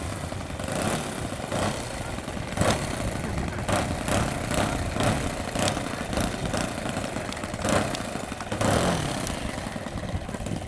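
Radio-control model aircraft engine running steadily.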